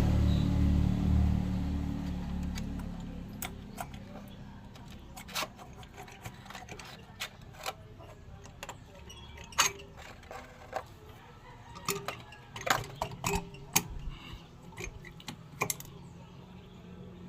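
A motorcycle engine running with a low hum, fading away over the first three seconds or so. It is followed by scattered light clicks and taps, some of them in quick little clusters.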